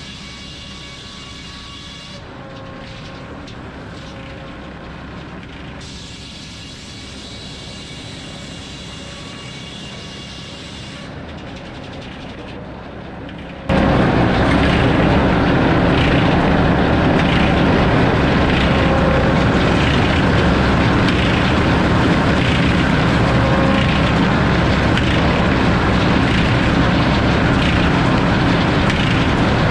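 Circular sawmill with a 52-tooth F-pattern saw blade spinning free with a steady hum. About halfway through, the blade enters the log and the sound jumps sharply to a much louder, steady cutting noise that holds to the end.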